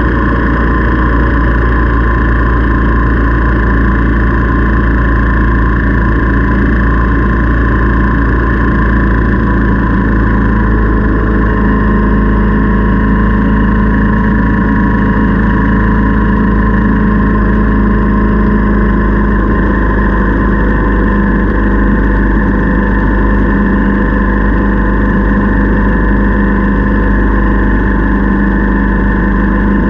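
Motorcycle engine running at a steady speed while riding, its pitch holding even with no revving.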